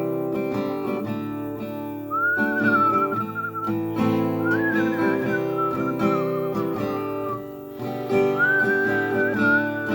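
Acoustic guitar strumming chords, with a whistled melody coming in about two seconds in, in three long wavering phrases.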